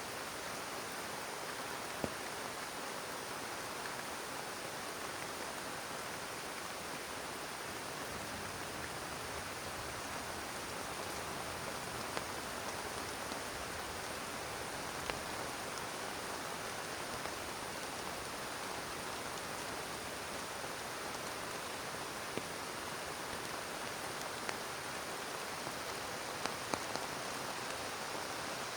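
Heavy rain falling steadily, with a few sharp drop ticks standing out now and then.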